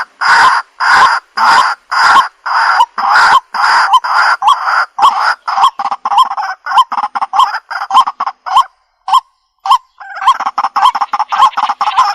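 Waterhen (jal murgi) calling: a loud series of harsh, repeated notes, about two a second at first, then shorter and quicker at about four or five a second. After a brief pause broken by a few single notes, a fast, crowded run of calls starts near the end.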